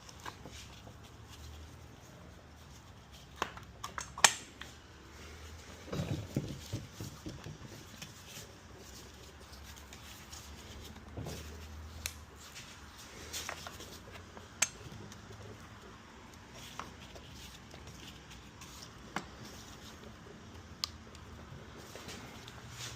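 Handling noises from hand tools and small parts: scattered sharp clicks, the loudest about four seconds in, and a short run of duller knocks about six seconds in.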